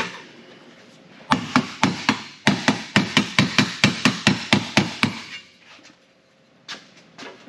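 A hammer striking sheet metal in a quick run of about eighteen blows, some five a second, then a couple of lighter knocks near the end.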